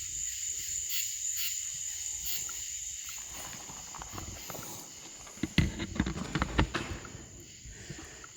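A steady high-pitched chorus of night insects such as crickets. From about three and a half seconds in, a run of irregular knocks and rustles comes in over it, loudest for a second or so past the middle, then fades.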